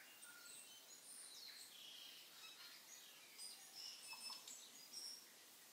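Faint birdsong: many short high chirps and whistles over a light hiss, busier in the second half.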